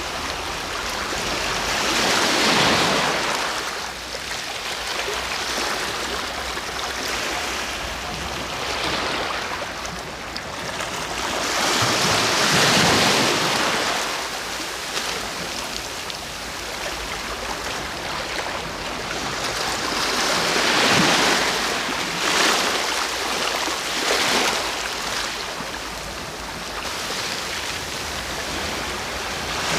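Sea waves rolling in: each wave swells into a loud rush of surf and then sinks back to a lower hiss. Three bigger waves come roughly ten seconds apart, with a couple of smaller ones between them near the end.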